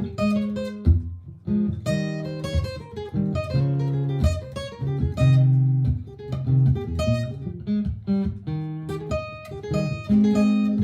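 Martin GPCPA4 acoustic guitar played through a looper pedal: a repeating looped guitar part with improvised plucked notes and chords over it.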